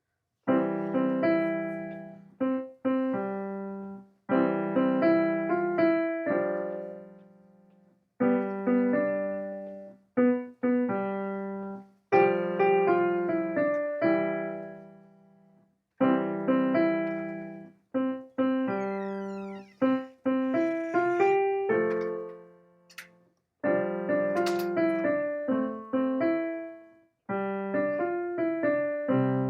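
A keyboard in a piano voice playing a tune in short phrases of chords and melody notes. Each note strikes sharply and dies away, and brief silences fall between phrases.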